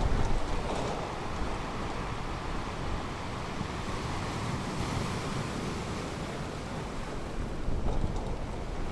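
Ocean waves washing onto a beach, a steady rush of surf that swells louder at the start and again near the end, with low wind rumble on the microphone.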